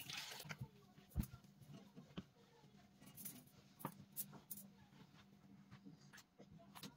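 Faint scattered clicks, taps and light scraping of household items being handled during cleaning and tidying, with one sharper knock about a second in, over a faint steady hum.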